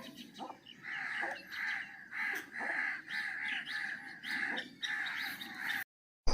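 A bird calling over and over in a steady series of harsh calls, about two a second, cut off abruptly near the end.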